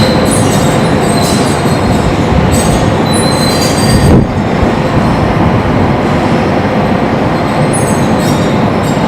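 Strong wind on metal sheeting: a loud, dense rush with thin, high metallic squealing tones and scattered scraping. There is a brief louder surge about four seconds in.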